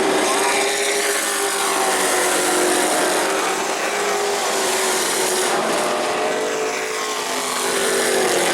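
Race trucks' engines running at speed on a short oval, several engine notes at once, their pitch falling and rising as the trucks pass and work through the turns.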